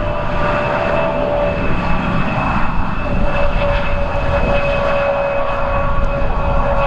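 Airliner engines running with a steady whine of several held tones, over a gusty low rumble of wind on the microphone.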